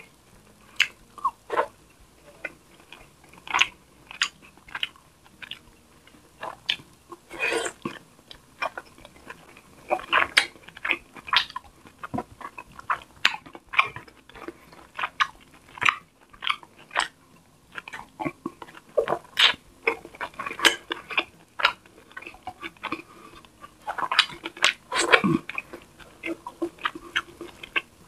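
Close-up chewing and mouth sounds of a person eating tilapia in coconut milk with rice by hand: irregular soft clicks and chews, with busier clusters about ten seconds in and near the end.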